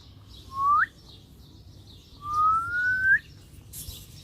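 Two rising whistles: a short one sweeping quickly upward, then a longer one climbing slowly and flicking up at the end.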